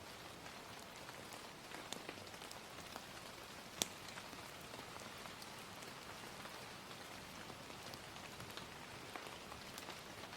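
Steady rain with scattered sharp crackles from a wood fire; one pop about four seconds in is the loudest.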